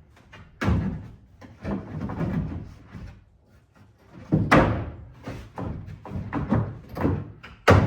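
Bed platform deck panel being slid and worked down into place on its frame in a truck bed: a series of knocks and thuds, the loudest about half a second in, around four and a half seconds, and near the end.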